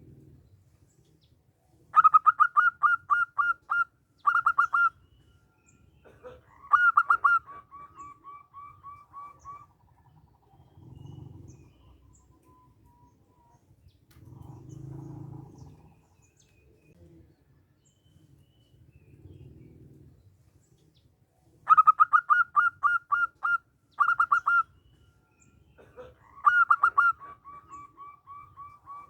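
Zebra dove (perkutut) singing: twice, a quick burst of loud, clipped staccato notes, then a softer run of evenly spaced notes trailing off.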